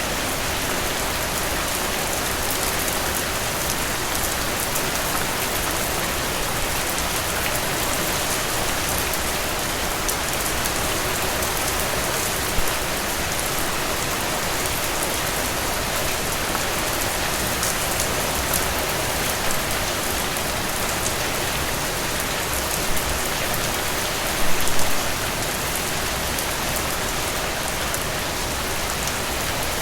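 Steady rain: an even hiss of falling rain with fine drips ticking through it. A few louder single drops land at scattered moments, with a short cluster of them near the end.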